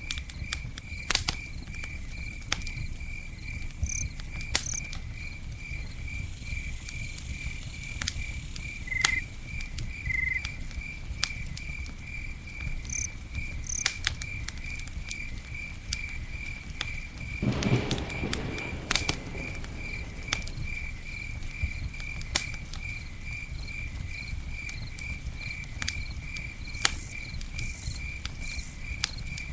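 Campfire crackling with scattered sharp pops over a low hiss, and a louder burst of crackling a little past the middle. A cricket chirps steadily in the background, a few even pulses a second.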